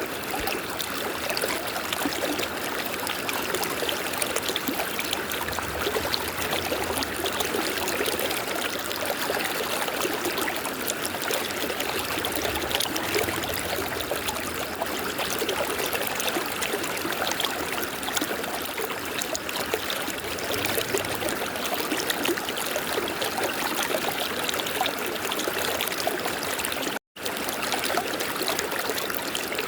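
River water flowing steadily over rocks, a continuous rushing and trickling. The sound drops out completely for a split second near the end.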